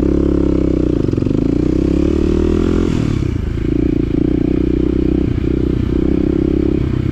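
Small off-road vehicle engine running under way on a rough trail, its pitch dipping and then climbing over the first three seconds before settling, with clattering and scraping from the machine over the ground.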